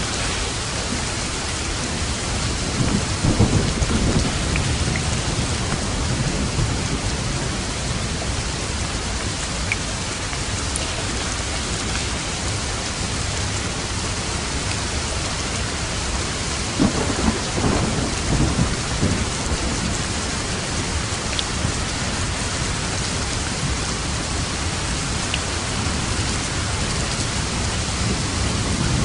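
Heavy rain falling steadily, with low thunder rumbling twice, about three seconds in and again a little past the middle, and a third rumble starting near the end.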